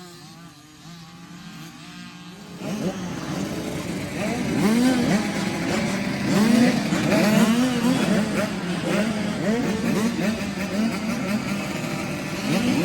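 Several small 50cc youth motocross bikes racing, their engines revving up and down over one another. Fainter at first, the engines grow louder about three seconds in.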